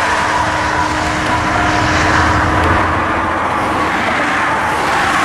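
Westbound freight train led by GE C44-9W diesel locomotives approaching at speed: a loud, steady rumble of the engines and wheels on rail, with a steady tone that fades out a little over halfway through.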